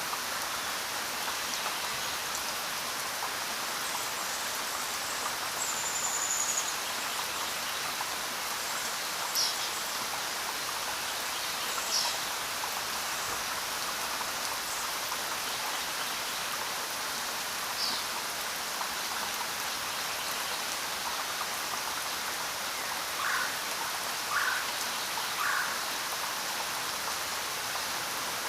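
Steady rainfall pattering on a road and the surrounding forest. A few brief, faint high chirps break through now and then, with three short lower calls close together near the end.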